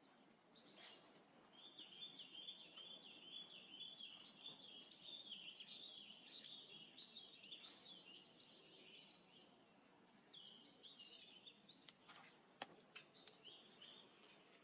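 Faint bird song: a long, rapid, high warble that breaks off past the middle and resumes briefly, followed by a few soft clicks near the end.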